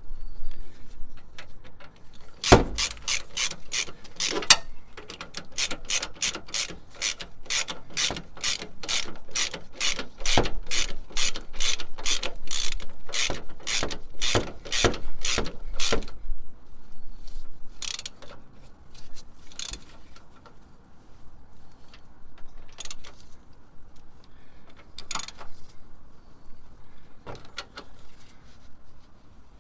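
Hand socket ratchet clicking on its back-swings as the steering box mounting bolts are run in: a steady run of sharp clicks about two a second for the first half, then only now and then.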